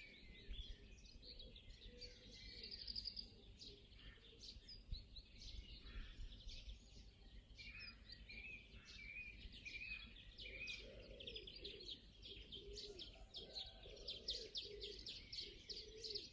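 Faint birdsong: birds chirping and trilling continuously.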